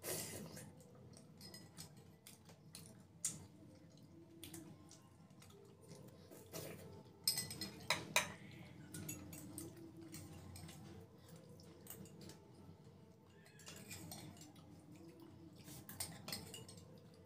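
Metal spoons clinking and scraping against ceramic and glass bowls while eating: scattered light clicks, with a cluster of louder clinks about seven to eight seconds in.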